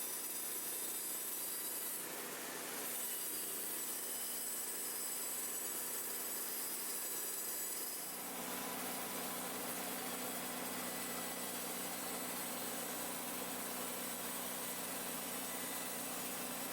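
Portable sawmill running steadily as its blade cuts through a log, the engine and blade noise shifting abruptly about eight seconds in.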